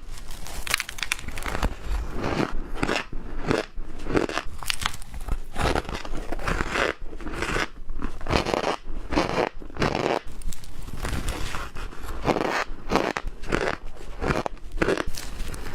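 Squeaky ice being bitten and chewed close to the microphone: a steady run of irregular crunches and crackles, several a second.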